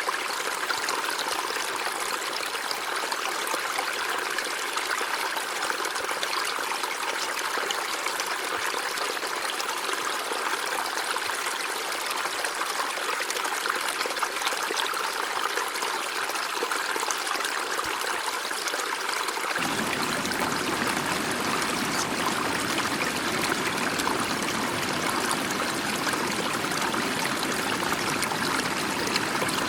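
River water flowing and trickling steadily. About two-thirds of the way in it changes suddenly to a fuller flow with more deep rumble.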